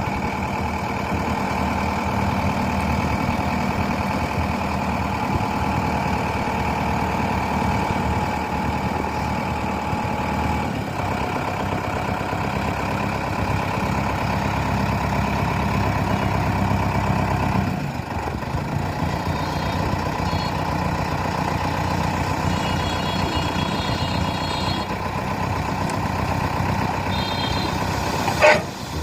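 Tractor engine running steadily, its note changing about eleven seconds in and again about eighteen seconds in. A few short high beeps sound in the second half, and a sharp knock comes near the end.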